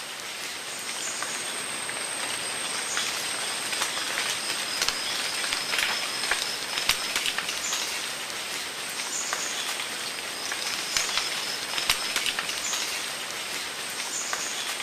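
Rainforest ambience: a steady high-pitched insect drone over a hiss, with short high chirps now and then and scattered light ticks and taps.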